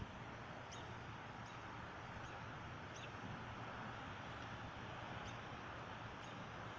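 Faint, steady wind noise outdoors as a storm passes, with a few faint high chirps about once every three quarters of a second.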